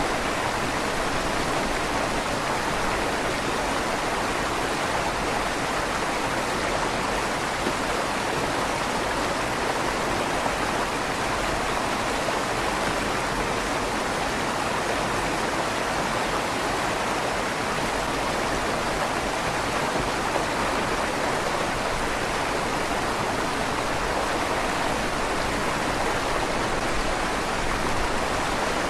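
River water flowing steadily through a stone tunnel under a bridge, an even rushing with the slight echo of the tunnel walls.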